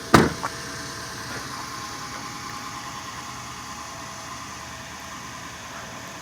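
A sharp click just after the start and a lighter one about half a second in, then a steady hum with a faint whine: the 2004 Lexus LX470's height-control suspension pump running to raise the truck to its high setting, over the idle of its 4.7-litre V8.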